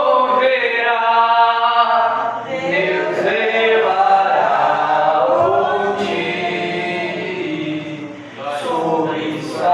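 A man singing a slow hymn in Portuguese, with long held notes that glide between pitches.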